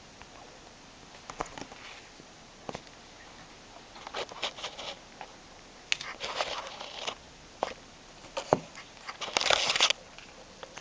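A cat scrabbling about under a low sofa: irregular bursts of scratching, scuffing and rustling with a few sharp taps, the longest and loudest burst near the end.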